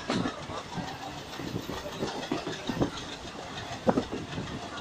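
Train running along the track: a steady rushing rumble with irregular knocks of the wheels, the loudest about four seconds in.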